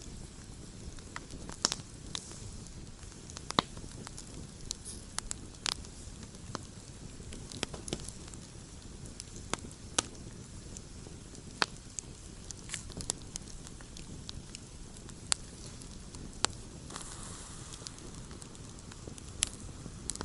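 Campfire burning with irregular crackles and occasional sharp pops over a low steady rumble.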